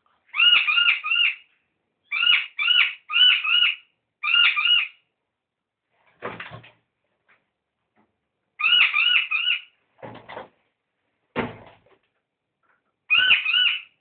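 Noisy miner calling in six bouts of two to four quick, arched, piercing notes. A few duller knocks and scuffles come between the bouts.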